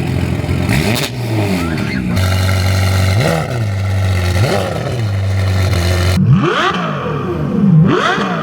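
Sports car engines idling and being blipped: about five short revs, each rising and falling back to a steady idle. The sound changes abruptly twice.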